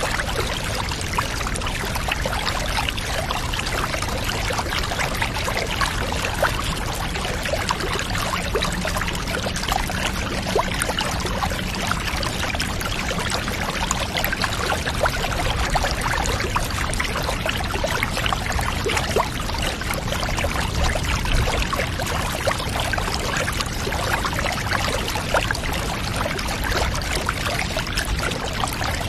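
Bath water running and trickling steadily, full of small splashes and drips over a low rumble.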